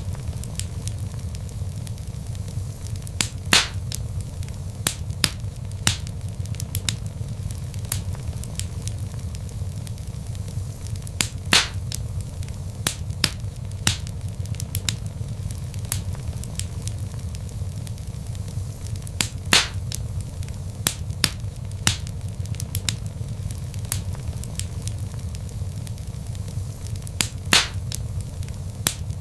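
Log fire crackling: a steady low rumble of flames with frequent small snaps, and a louder pop about every eight seconds.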